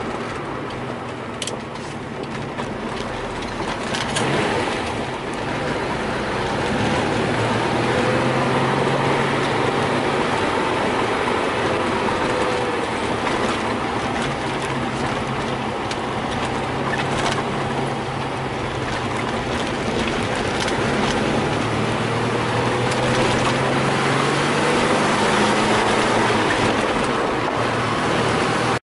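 Porsche 914 on a test drive: the engine runs steadily under load with road and wind noise, its pitch rising and falling gently as road speed changes.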